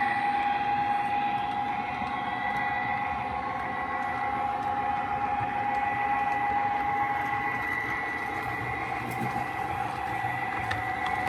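O gauge Lionel GP-30 model locomotive running with its train of boxcars and coaches: a steady electric motor whine over the rumble of metal wheels rolling on the track.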